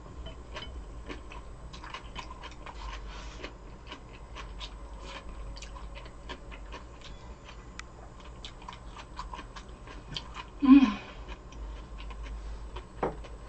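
A person chewing food close to the microphone, with many small wet mouth clicks, and one louder short mouth sound about eleven seconds in.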